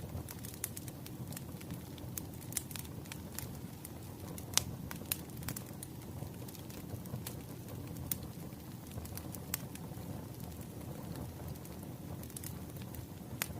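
Wood fire crackling: a low, steady rumble of flames with sharp pops and snaps at irregular intervals.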